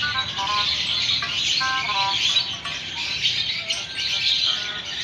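Birds chirping continuously, a dense chatter of many short notes.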